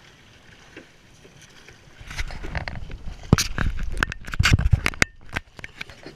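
A rowing boat under way: after a couple of seconds of quiet water and wind, a run of knocks and clatter with a heavy low rumble on the microphone, which stops abruptly a little after five seconds in.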